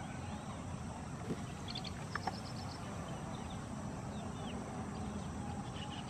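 Steady low background rumble with faint high bird chirps; about two seconds in, a small bird gives a quick run of around ten short, high notes. A few soft knocks stand out just before and during that run.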